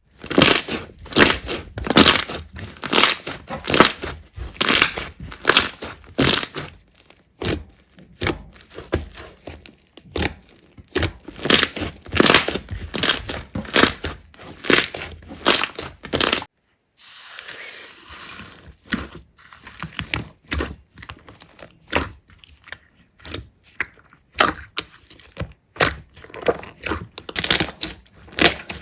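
Slime being squeezed and pressed by hand, giving a rapid run of sticky crackles and pops. About halfway through it breaks off briefly, then goes on more quietly with sparser crackles.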